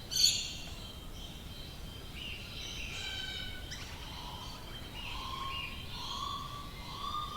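Several Australian bush birds singing over one another, with high chirps and whistles and a sharp loud call just after the start. From about four seconds in, a lower call repeats roughly once a second.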